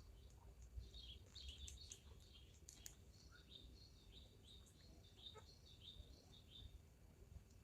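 Faint, high bird chirps: a busy run of short calls over low background noise.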